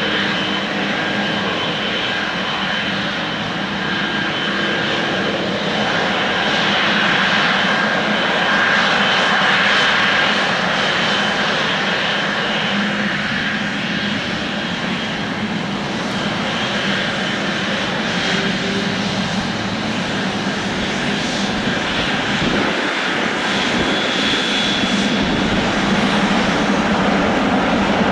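Boeing 777-300ER's GE90 jet engines running steadily, a continuous rush with a held high whine.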